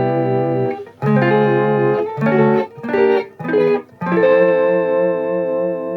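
Electric guitar chords through a Danelectro Cool Cat Vibe pedal set to full mix, into an Epiphone Valve Junior valve amp, each chord with a steady pulsing vibrato wobble. Two sustained chords, three short stabbed chords in the middle, then a long ringing chord near the end.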